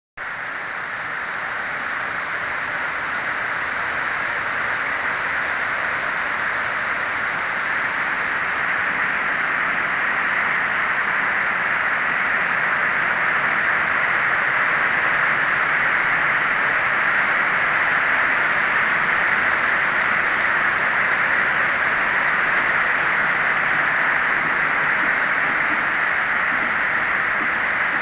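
Heavy rain pouring down in a steady, dense hiss that starts suddenly and swells a little over the first few seconds.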